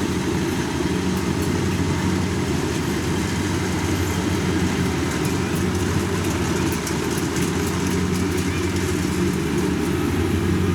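Combine harvester's diesel engine running steadily under load, a constant low drone with machinery noise over it.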